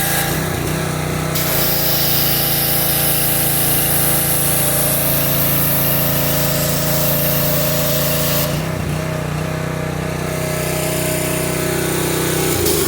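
A motor-driven machine running steadily at a high, even pitch with a hiss over it. It dips briefly under load twice, then shuts off at the very end.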